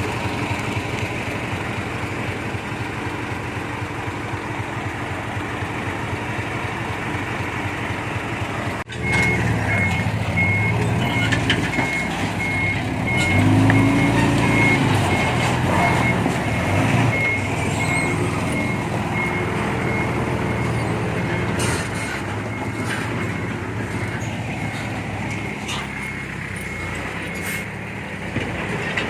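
Heavy earthmoving machine's diesel engine running steadily; after a sudden break about nine seconds in, a machine backs up with its reversing alarm beeping evenly over the engine, which rises and falls in speed.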